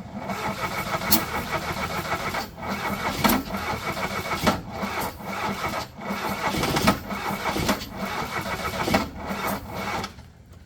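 An engine running loudly, with a steady whine through it. The sound drops out briefly several times and stops about ten seconds in.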